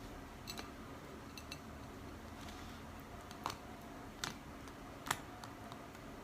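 Light clicks and taps from small kitchen items being handled, about five scattered over a few seconds, against quiet room tone.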